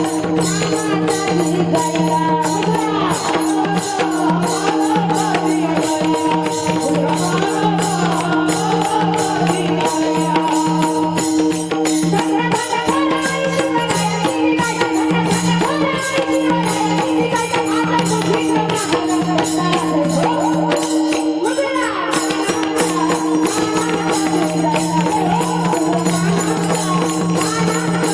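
Devotional kirtan music: a steady held drone under a wavering melodic line, with fast, even jingling percussion strokes.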